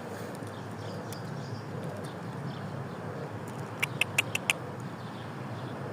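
Steady outdoor background noise, with a quick run of five sharp clicks about four seconds in.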